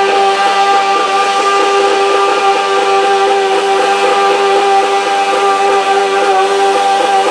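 Modified pulling garden tractor's engine running flat out at one steady, high, buzzing pitch throughout.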